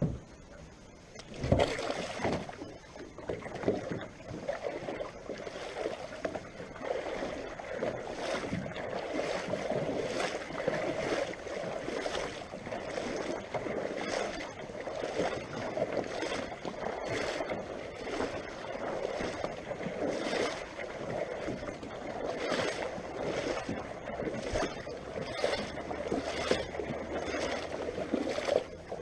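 Water splashing and sloshing in many quick irregular strokes, starting suddenly about a second and a half in and going on throughout.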